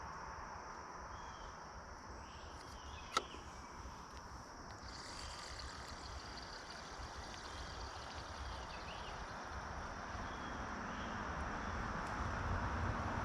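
Swamp ambience: a steady high insect drone over a low rumble that slowly grows louder toward the end, with a single sharp click about three seconds in.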